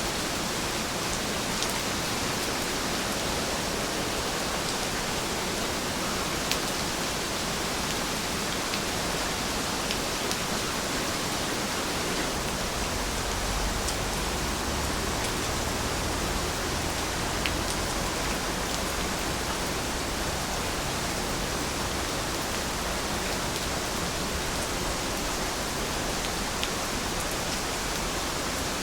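Steady rain falling, an even hiss with a few faint drop ticks, and a slight low rumble for a few seconds around the middle.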